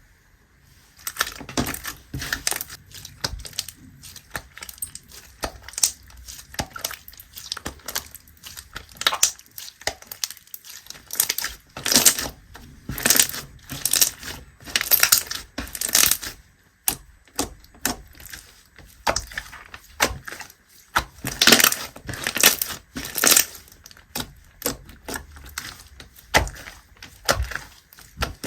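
Clear slime being squeezed and pressed by hand, giving repeated sharp clicks and pops in uneven clusters of about one or two a second.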